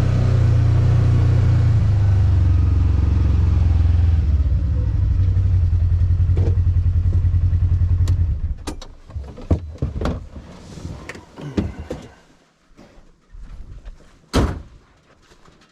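A motor runs with a low, steady rumble and a fast pulse, then cuts off abruptly about eight seconds in. Scattered knocks and clicks follow, with one sharp knock near the end.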